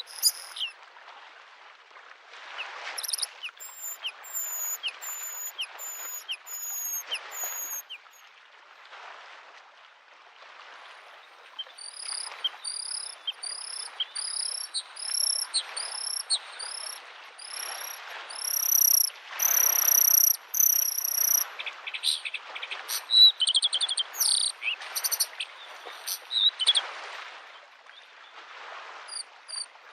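Bluethroat singing in runs of repeated clear notes: a series of falling whistles early on, then a longer run that climbs in pitch, then a jumble of varied notes. Underneath, small lake waves lap at the shore in soft swells every second or two.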